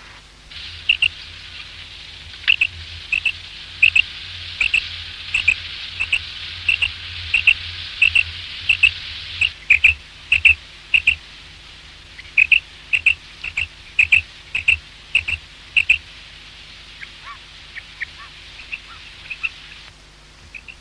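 Common quail calling: a long run of short, sharp, high notes, many in quick pairs, repeated about every half second. The calls stop after about 16 seconds, and fainter, lower chirps follow near the end.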